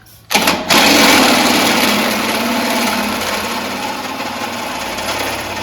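A power tool's motor running loud and steady after a short first blip, likely driving a screw with a vacuum washer into the car's fiberglass body panel.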